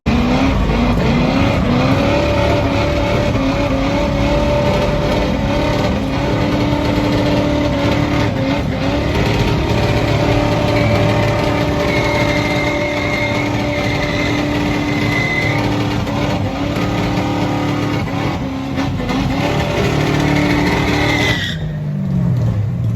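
A car held at high revs while its tyres squeal, as in drifting. Near the end the engine note dips and climbs again as it is revved.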